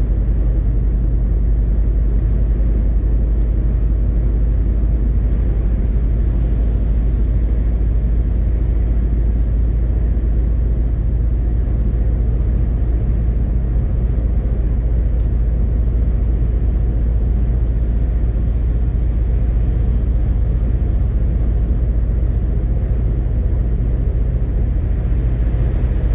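MAN TGX 18.520 truck's straight-six diesel engine running steadily on the road, a constant deep rumble mixed with tyre and road noise.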